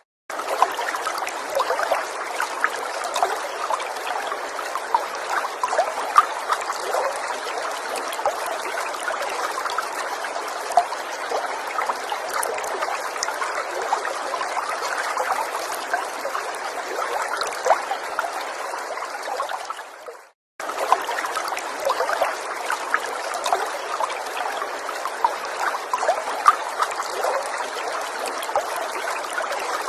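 Small stream trickling and splashing over stones, a steady wash of running water full of little droplet plinks. The sound cuts out completely for a split second right at the start and again about twenty seconds in, where the recording is looped or edited.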